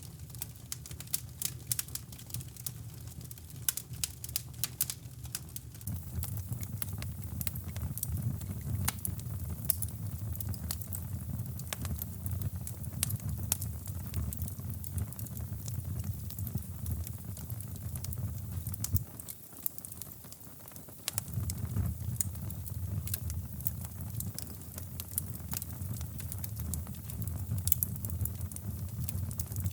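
Fireplace fire crackling, with frequent sharp pops over a low rumble that fades out briefly about twenty seconds in.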